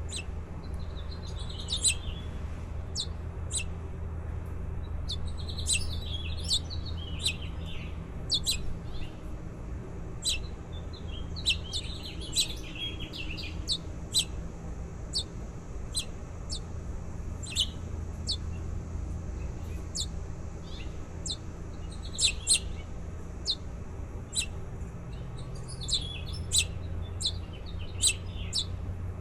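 Baby birds chirping: a string of short, sharp high chirps with several bouts of quicker twittering, over a steady low hum.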